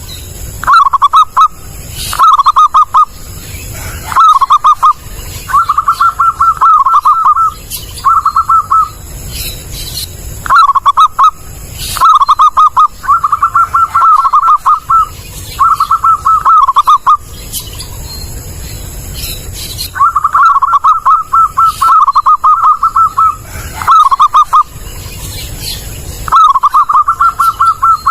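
Zebra dove cooing loudly and clearly: phrases of quick, staccato notes at nearly one pitch, repeated again and again with short pauses between them.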